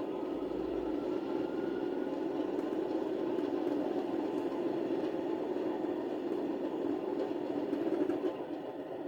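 DCC sound decoder in an OO gauge Class 37 model playing its English Electric diesel engine, heard through the model's small speaker, running up after a start with a rising turbocharger whistle over the first two seconds. It runs steadily, then drops back a little near the end as it settles.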